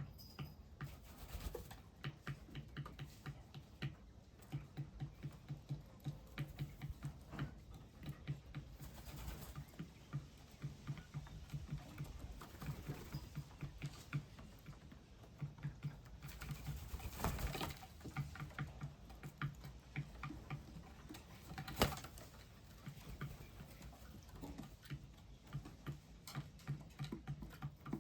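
Small birds feeding, with rapid, irregular light tapping of beaks pecking seed, several taps a second and a sharper knock late on.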